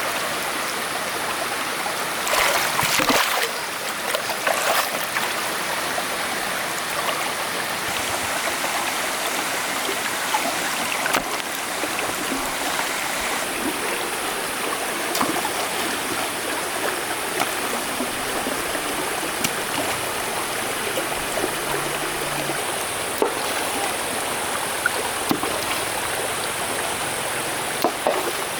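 Steady rush of a flowing stream, with a louder patch about two to three seconds in and a few short sharp knocks scattered through.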